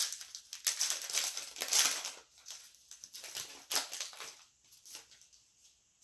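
Foil trading-card pack wrapper crinkling and rustling as the pack is opened and the cards handled, in irregular crackles that die away near the end.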